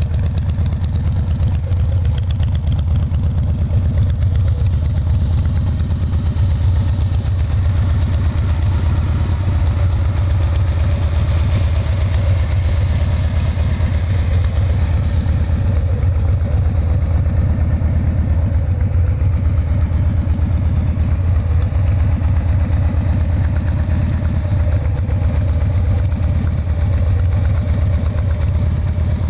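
2009 Harley-Davidson Dyna Super Glide's Twin Cam 96 V-twin idling steadily through Khrome Werks 2.5-inch slip-on mufflers, with a deep, even exhaust rumble.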